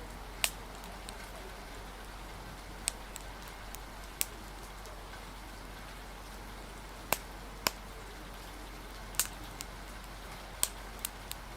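Steady rain with a wood fire crackling: sharp, irregular pops about every second or two over an even hiss.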